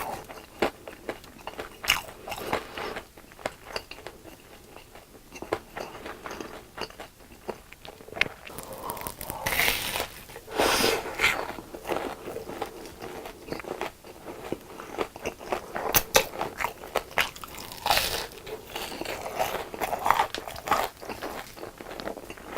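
Crunching bites and chewing of crispy deep-fried food, a steady run of sharp crackly crunches with louder clusters of bites around the middle and again near the end.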